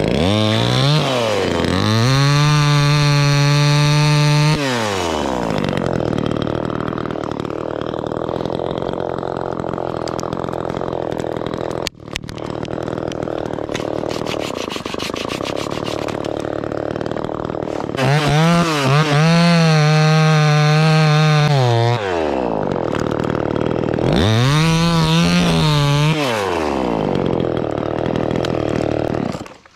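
Two-stroke chainsaw revving up to full throttle and dropping back several times, with a longer stretch of lower, steadier running in between, as it cuts into a white pine.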